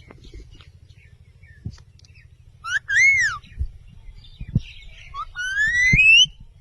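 Pet parrot whistling: a short whistle that rises and falls about three seconds in, then a longer whistle that climbs steadily in pitch near the end. A few soft low knocks come between them.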